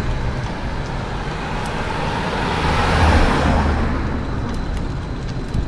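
A road vehicle passing close by, its tyre and engine noise swelling to its loudest about three seconds in and then fading, over a steady low rumble.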